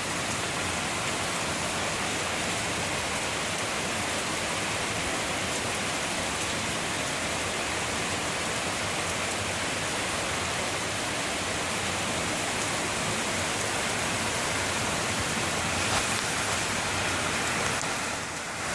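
Heavy thunderstorm rain pouring down in a steady, dense hiss, water running off the roof and over flooded ground; it eases briefly near the end.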